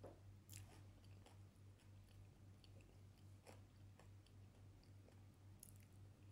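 Faint chewing of chicken curry, with a few sharp mouth clicks, over a steady low hum.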